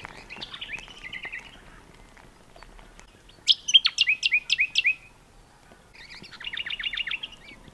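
A songbird singing three trilled phrases, each a quick run of repeated downward-sweeping notes. The middle phrase is the loudest.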